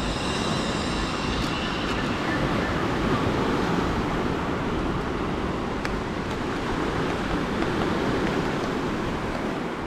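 Steady noise of sea surf and wind, with wind rumbling on the microphone.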